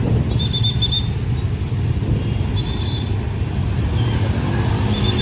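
Train passing through a level crossing: a loud, steady low rumble of wheels on rail, with several short high chirps over it.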